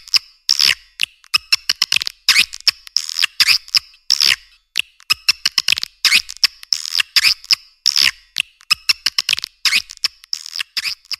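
Swiftlets twittering: quick bursts of sharp, clicky chirps and buzzy trills, several bursts a second with brief gaps between them.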